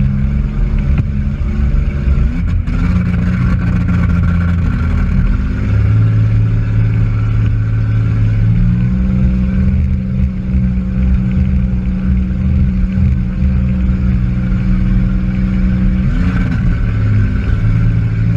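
A demolition derby car's engine running loud and revving, heard from inside the cabin. Its pitch steps up and down several times as the throttle changes.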